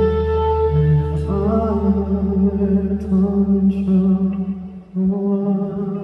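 Live band music with long held notes and chords; the low bass drops away about five seconds in, leaving lighter guitar.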